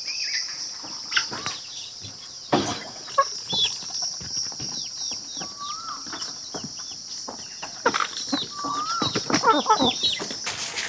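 Farmyard ambience: chickens clucking and small birds chirping in quick falling notes over a steady high insect drone, with a few sharp knocks.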